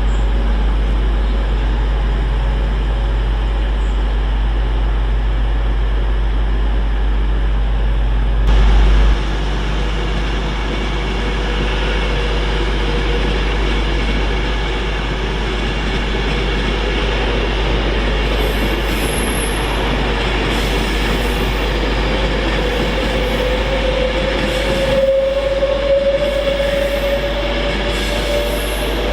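A train running past on the main line with a steady rumble. A faint whine rises slowly in pitch near the end.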